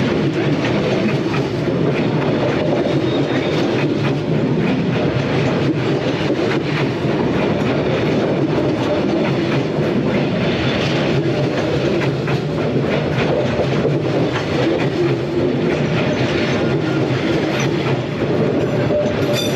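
Train running along the track, its wheels clacking over the rail joints; a steady, continuous rumble with rapid clicks.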